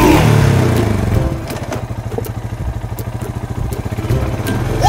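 Vehicle engine running steadily with a fast, even pulsing, like a motorbike or car engine pulling away.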